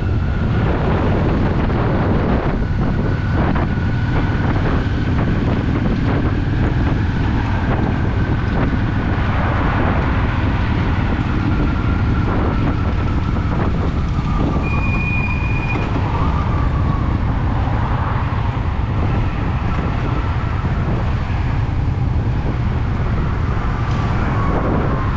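Honda Shadow VT750's V-twin engine running steadily under way, mixed with wind rushing over the microphone. A thin whine slides slowly down in pitch through it.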